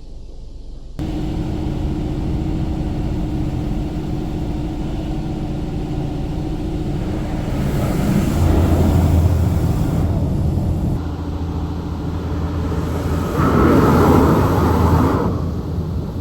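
A car's engine and road noise while driving: a steady low hum that starts abruptly about a second in and swells louder twice, as if under acceleration.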